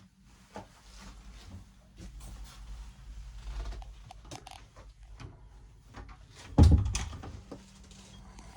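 Scattered clicks and knocks with a low rumble, and one loud, low thump about two-thirds of the way through.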